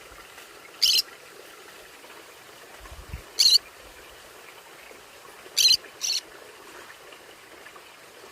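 Conure giving four short, loud calls over a steady low hiss: one about a second in, one midway, then two in quick succession.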